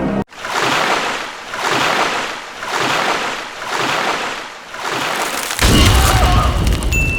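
Rushing water that surges and fades about once a second, then breaks into a louder, deep rumbling rush about five and a half seconds in.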